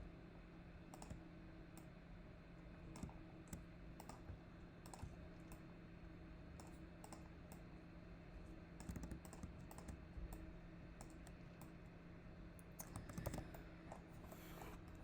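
Faint, scattered clicks of a computer keyboard and mouse being worked at irregular intervals, over a steady low hum.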